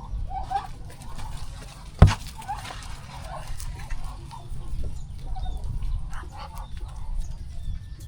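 Chickens clucking in short, scattered calls, with one sharp knock about two seconds in over a low steady rumble.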